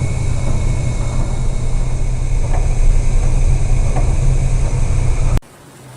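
Heavy low rumble with a steady hiss aboard a cargo ship riding high storm waves at sea. Near the end it cuts off suddenly to a much quieter rumble.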